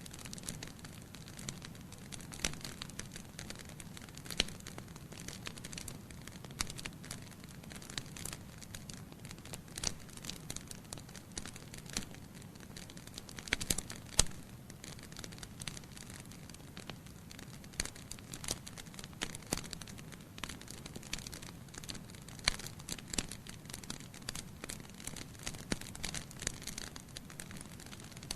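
Logs burning in a fireplace: a steady low rumble of flame with frequent irregular crackles and sharp pops, a loud cluster of pops about halfway through.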